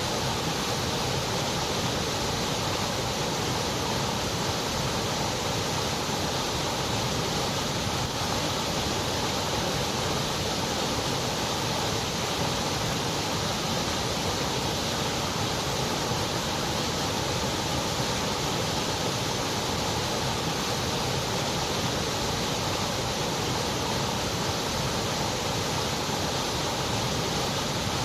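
Steady, unbroken white noise: an even hiss that does not change.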